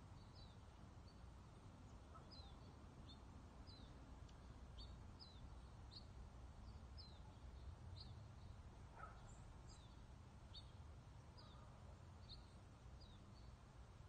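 Birds chirping faintly: a steady run of short, high chirps that slide downward, about two a second, over a low background rumble.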